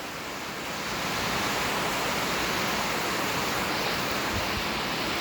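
Heavy rain coming down in a steady hiss, a little louder from about a second in.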